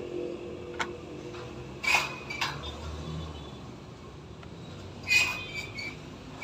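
A few sharp clinks of a hard object, each with a brief ringing tone. The loudest come about two seconds in and about five seconds in.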